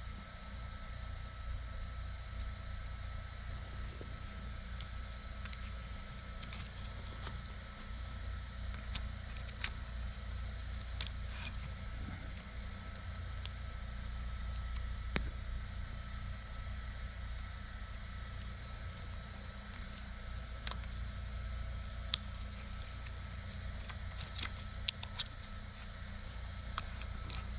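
Scattered light clicks and taps of small metal fittings, tools and a hose clamp being handled during plumbing work, over a steady low hum.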